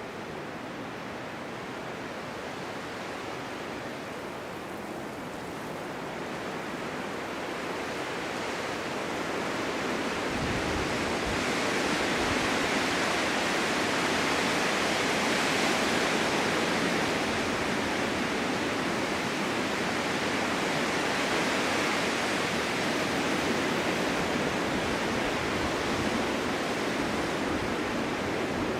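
Winter wind blowing in a steady rush, building into a stronger gust about ten seconds in and staying strong.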